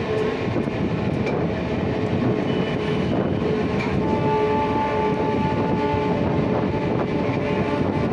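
MEMU electric train running along the track, heard from aboard: a steady rumble and rattle of the moving coaches, with a faint humming tone that fades in and out.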